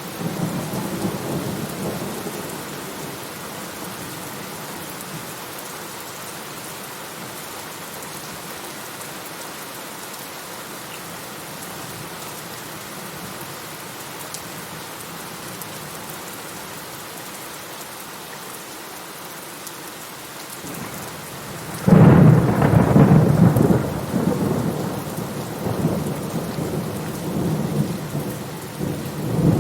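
Steady rain falling, with a thunderclap crashing in suddenly about three quarters of the way through and rolling on in long low rumbles to the end; a fainter rumble dies away at the very start.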